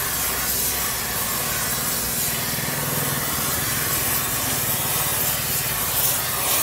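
Steady workshop machine noise: an even hiss over a low hum.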